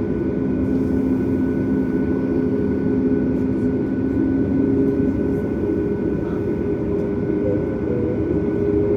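Cabin noise inside a Boeing 737 MAX airliner on the ground, likely taxiing: a steady rumble from its CFM LEAP-1B turbofan engines and air systems, with a few steady hum tones. One lower hum drops out about halfway through.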